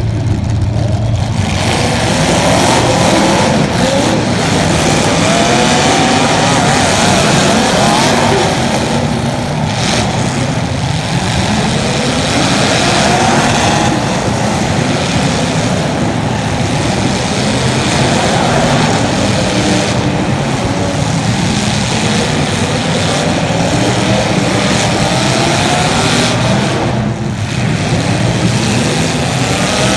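Race car engine running hard, its pitch climbing and dropping again and again every few seconds as it accelerates and lifts, over a steady rushing noise.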